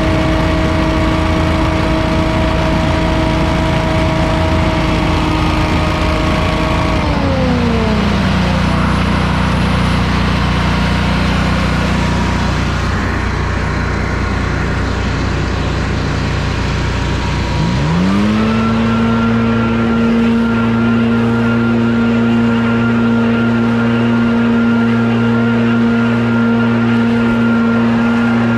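Small gasoline engine of lawn equipment running at high speed with a steady whine, throttled down about seven seconds in, idling lower for some ten seconds, then revved back up to full speed.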